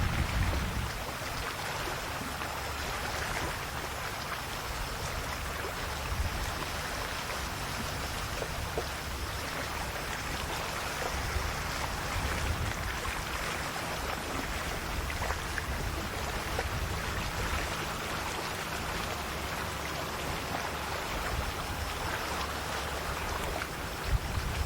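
Small waves of a calm sea washing and lapping at the shore in a steady hiss, with a few low rumbles near the start and end.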